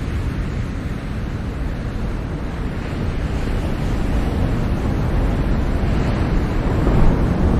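Ocean waves washing in a steady noisy rush with a heavy low rumble of wind on the microphone. The sound swells gradually, with a louder surge about seven seconds in.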